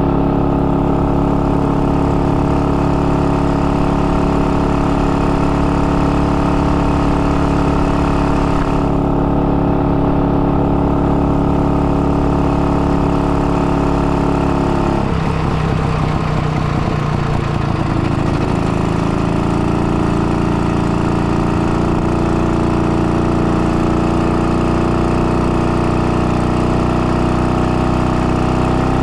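IZh 49 motorcycle's single-cylinder two-stroke engine, rebuilt with a 75 mm overbore piston and being run in, running at a steady note. About halfway through, the note changes over a few seconds and settles at a lower pitch.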